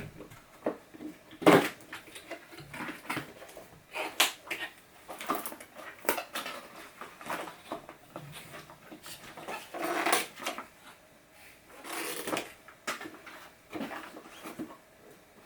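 Rustling and irregular clicks and crinkles of box packaging being handled as the car is worked out of the box, where it is held in with zip ties.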